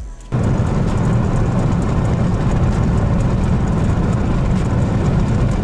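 Steady low rumbling noise of a vehicle driving on a snowy road, cutting in abruptly about a third of a second in.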